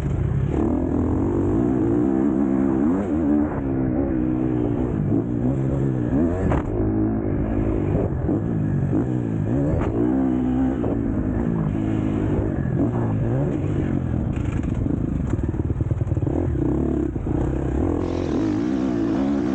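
KTM SX-F four-stroke motocross bike racing, its engine revving up and shifting down again and again, with clatter and knocks from the bike over the track.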